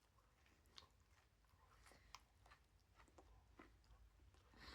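Faint chewing of a mouthful of sandwich: soft, scattered wet mouth clicks.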